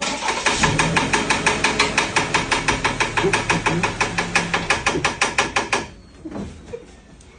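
Loud, rapid, regular knocking from a car engine, about eight knocks a second over a low running hum. It cuts off suddenly after about six seconds.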